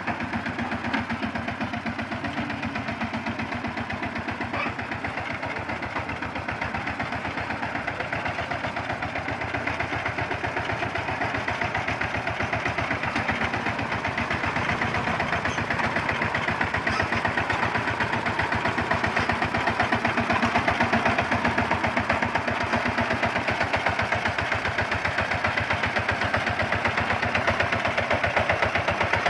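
Single-cylinder diesel engine of a two-wheel walking tractor running with a steady, fast chugging beat, growing somewhat louder in the later part.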